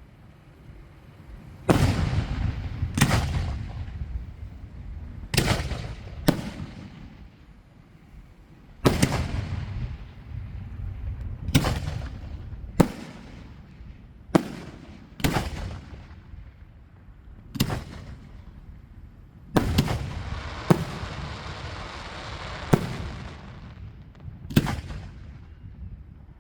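Aerial fireworks bursting: about fourteen sharp bangs at irregular intervals, each trailing off in an echoing rumble, with a longer rush of dense noise following the burst about twenty seconds in.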